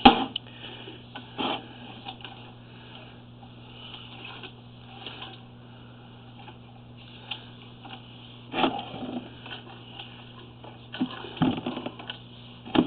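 Sewer inspection camera equipment running: a steady low hum with a few scattered knocks and clicks. The clearest knocks come about a second and a half in, near the two-thirds mark and toward the end.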